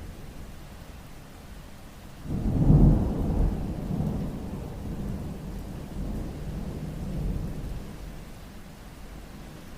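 A roll of thunder during rain: a low rumble that swells suddenly about two seconds in and rolls away over several seconds, over a steady background of rain.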